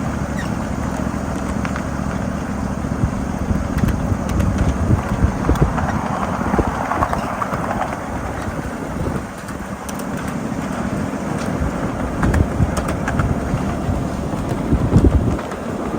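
7.5-inch gauge ride-on miniature freight train rolling along the track: a steady rumble of wheels on rail, with scattered sharp clicks.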